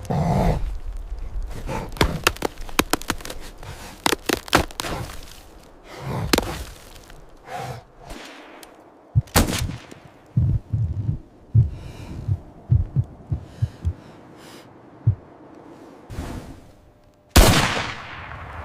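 A series of sharp knocks and dull thuds, then one loud bang near the end that rings on briefly as it dies away.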